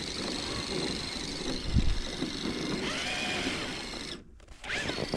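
Whine of an RC crawler's electric motor and gears, steady at first, then rising and falling with the throttle, over a haze of wind noise. A brief low thump comes about two seconds in, and the sound drops out for a moment near the end.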